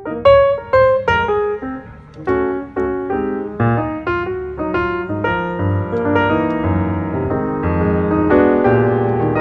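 Background piano music: single struck notes at first, then fuller sustained chords with a low bass line from about four seconds in.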